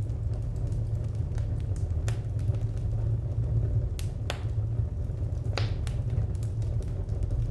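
Wood fire crackling: scattered sharp pops and snaps over a steady low rumble, with the loudest pops a little past the middle.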